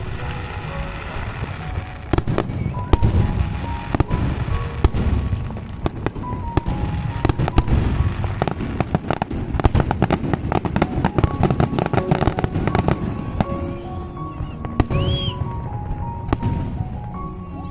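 Fireworks display: a rapid run of bangs and crackles over a low rumble, thickest about halfway through.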